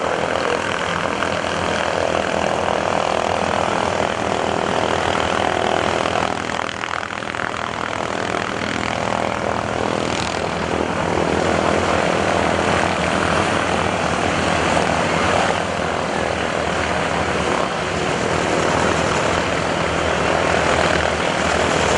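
Pratt & Whitney radial engines of North American SNJ-2 trainers, about 600 horsepower each, running steadily.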